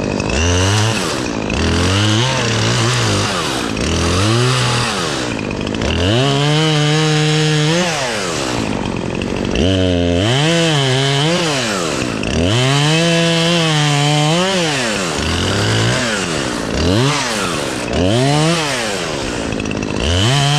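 Gas chainsaw engine revved up and down repeatedly: quick throttle blips, with several stretches of about two seconds held at full throttle, as it cuts through tree limbs.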